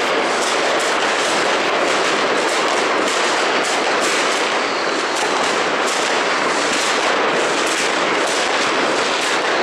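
New Year's fireworks and firecrackers going off in a loud, continuous barrage: many bangs and cracks overlapping into an unbroken crackle with no gaps.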